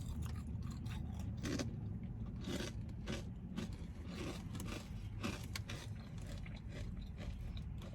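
Someone chewing and biting food, with scattered short crunches and rustles over a steady low hum.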